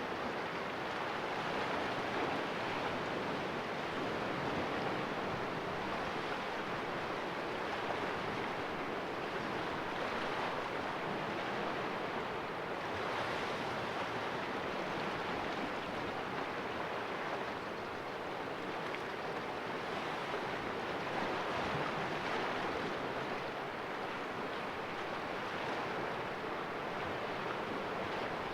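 Sea waves washing and splashing against rocks in a small cove, a steady surf noise that swells and eases gently.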